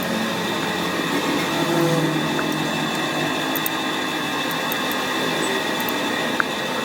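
Workshop machine tool running steadily with a constant whine and hum, and a few faint clicks.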